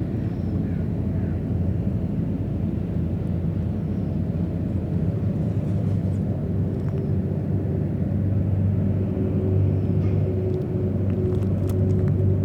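Steady low engine rumble, with a hum coming in about halfway and growing slightly louder toward the end.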